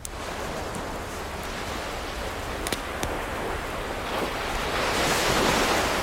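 Ocean surf: a wave washing in, building to its loudest about five seconds in and then easing off, with a few faint crackles from a wood fire.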